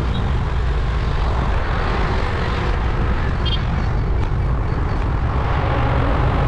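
Steady road noise from riding a motor scooter through city traffic: wind rumbling on the microphone over the sound of the engine and surrounding traffic.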